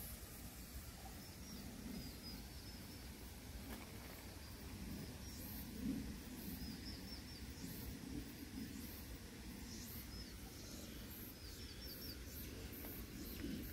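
Faint outdoor ambience: a small bird chirping in quick runs of three or four high notes every few seconds, over a low steady background noise.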